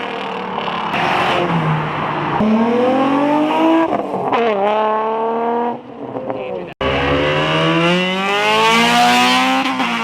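Cars accelerating hard in a street race, engine pitch climbing, dropping at gear changes and climbing again. The sound cuts off abruptly about seven seconds in, and another car is then heard accelerating with rising revs.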